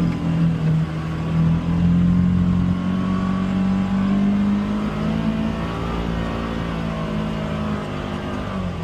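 Polaris Xpedition UTV engine running at steady high revs, its pitch climbing slightly in the middle and easing off near the end.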